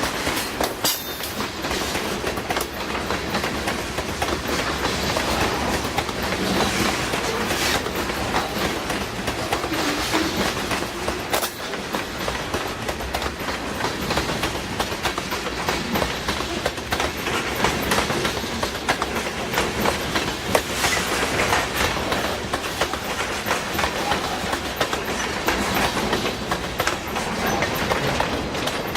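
Freight train cars rolling steadily past, the wheels clicking over the rail joints in a continuous clickety-clack.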